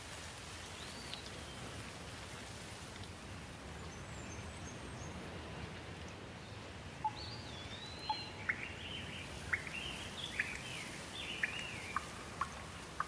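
Steady rain hiss with birds calling over it: a single call about a second in, then from about halfway through a quick run of short, sharp chirps and whistles.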